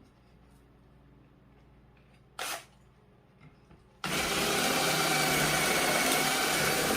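Power drill with a 1 3/8-inch bit boring through a tree branch: a short burst about two and a half seconds in, then the drill runs steadily for the last three seconds as it works through the wood.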